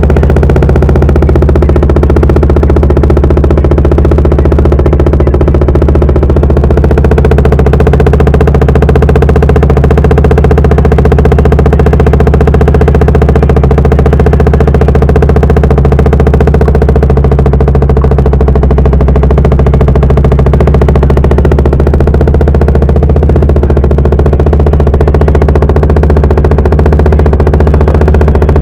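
Bajaj Dominar 400's single-cylinder engine idling steadily through an AR Shorty short aftermarket exhaust, after a cold start.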